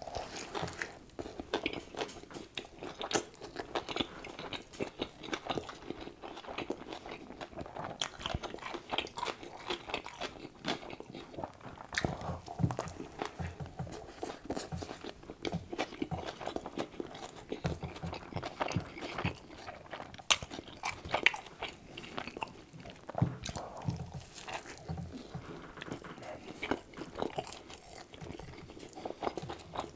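Close-miked ASMR eating sounds of a man biting into a double cheeseburger and chewing it. The chewing comes as a dense, uneven run of mouth clicks and smacks.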